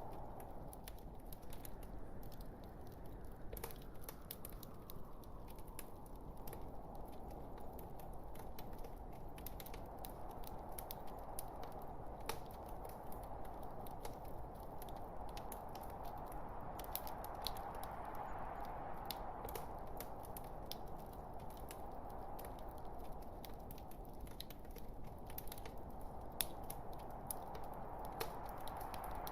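Wood fire crackling: irregular sharp pops and snaps from the burning logs over a steady rushing hiss that slowly swells and eases.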